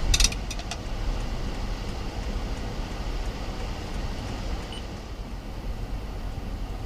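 Car running with a steady low rumble of engine and road noise, after a few sharp clicks and knocks in the first second.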